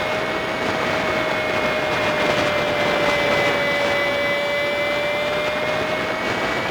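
A Honda Super Cub 50's small single-cylinder engine under way, sped up fivefold so its note is a steady high whine, rising slightly near the end, over a hiss of wind and road noise.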